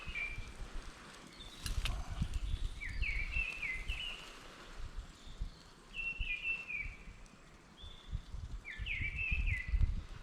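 A songbird repeating a short, stepped whistled phrase about every three seconds, four times. Underneath runs an uneven low rumble, with a single sharp click about two seconds in.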